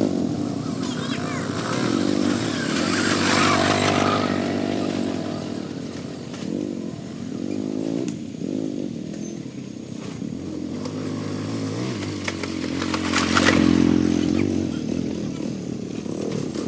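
A vehicle engine running, its pitch rising and falling as it changes speed.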